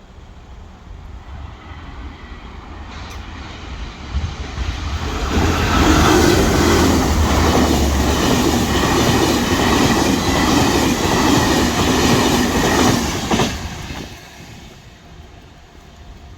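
Enterprise passenger train passing over a level crossing, its wheels rumbling and clattering on the rails. The sound builds over the first few seconds, stays loud for about eight seconds, and fades near the end.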